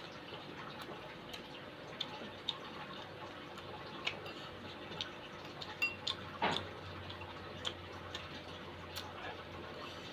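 Close-up eating sounds of someone chewing crispy fried tofu: scattered small clicks and crunches over a steady hiss, busiest about six seconds in.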